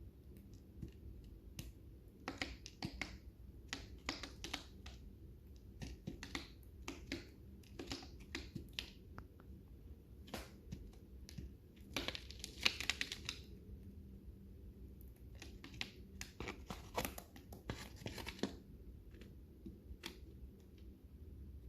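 Lovebirds eating seed, cracking and husking it with their beaks: irregular small cracks and crinkles, with a denser spell of crackling about twelve seconds in and another a few seconds later.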